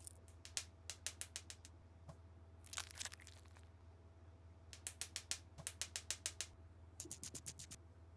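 Runs of quick, light clicks, about five or six a second, in three bursts, with a short rustle about three seconds in, over a steady low hum.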